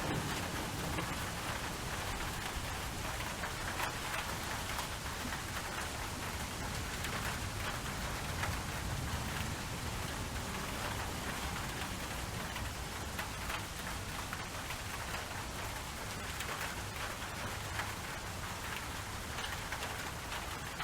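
Steady rainfall: an even hiss of rain with individual drops ticking through it.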